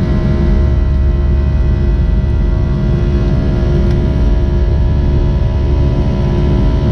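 Vehicle travelling at a steady speed: a loud, deep rumble with a steady engine hum that holds one pitch.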